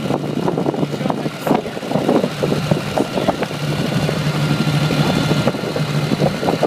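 Tractor engine running at a steady speed: a constant low drone with irregular clattering over it.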